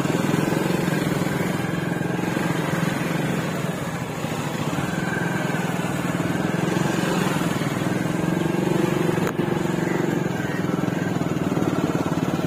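Suzuki motorcycle engine running steadily while the bike rides along, its pitch rising and falling slightly with the throttle.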